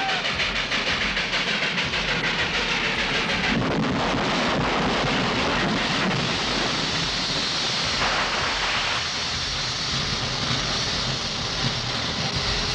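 Train passing close by: a loud, steady rushing rumble that cuts off suddenly at the end.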